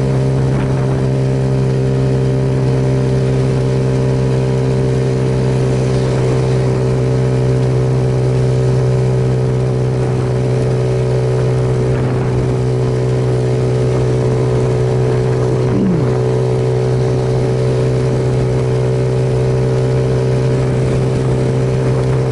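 Suzuki Yes motorcycle's single-cylinder engine running at a steady cruising speed, its pitch holding constant, under a steady rush of wind noise.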